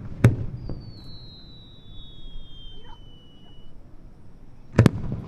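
Aerial firework shells bursting, with a rumbling echo: one bang about a third of a second in and a quick double bang near the end. Between them a thin high whistle slides slowly down in pitch.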